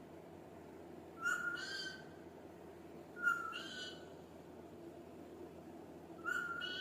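Ringneck parrot giving three short pitched calls, each under a second and rising slightly in pitch, spaced about two and three seconds apart.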